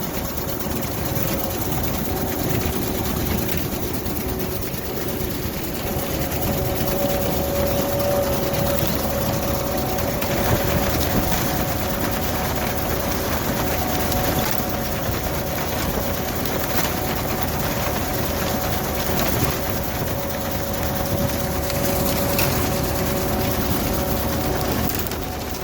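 Vintage tractor engine running steadily while pulling a Massey binder through standing corn, with a steady whine from the machinery over the engine's rumble.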